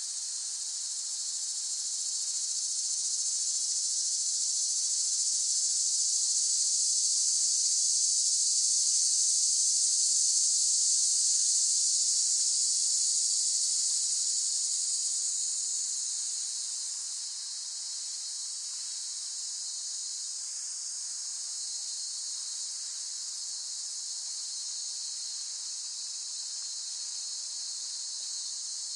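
Cicadas singing in a dense, continuous high-pitched buzz that swells louder for several seconds and then eases back about halfway through.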